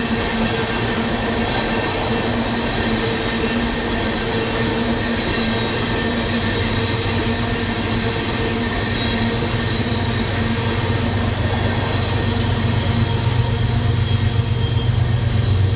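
Freight train cars rolling past with a steady wheel-on-rail rumble and faint held high wheel-squeal tones. A deeper engine rumble builds over the last few seconds, likely a diesel locomotive drawing near.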